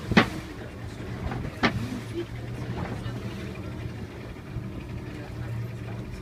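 Boat engine running steadily with a low hum. Two sharp knocks stand out, one right at the start and one about a second and a half later.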